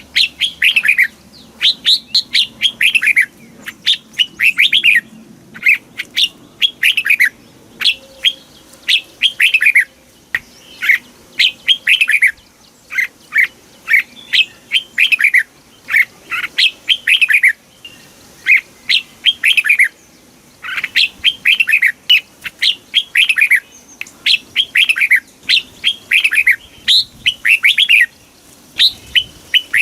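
Red-whiskered bulbul singing: short, quick phrases of downward-sweeping whistled notes, repeated in groups with brief pauses between them.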